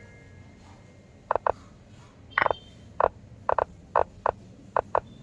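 Rapid chess move clicks in quick, irregular succession, about ten in five seconds, as in a fast bullet game; one, about two and a half seconds in, carries a short ringing tone.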